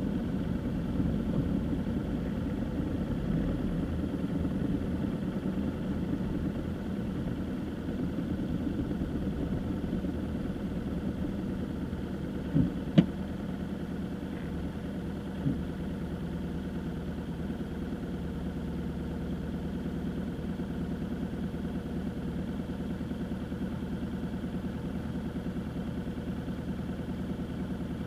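Car engine running with a steady low hum. Around the middle come two sharp knocks in quick succession, then a fainter one a couple of seconds later.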